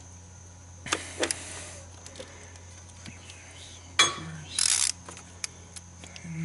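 Steel hand tools clinking as a ratchet and long extension are fitted onto the socket and swivel joint sitting down in a 5.7L Hemi spark plug well. There are a couple of sharp clicks about a second in, a louder metal clack about four seconds in followed by a brief rattle, then a few light ticks.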